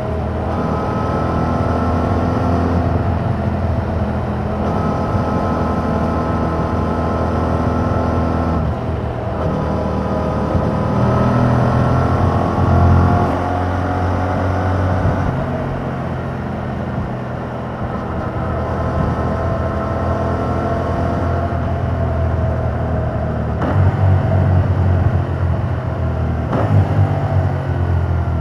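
Yamaha MT-07's 689 cc parallel-twin engine through its stock exhaust while riding. Its pitch climbs and falls with the throttle, dropping at each of several gear shifts.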